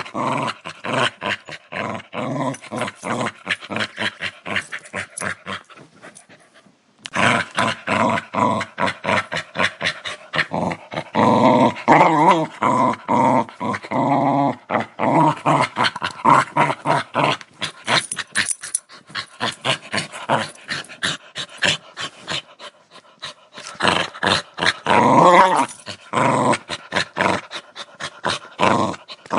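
Dog growling in rapid, rattling pulses, breaking off briefly about six seconds in, then resuming with rising, wavering snarls in places.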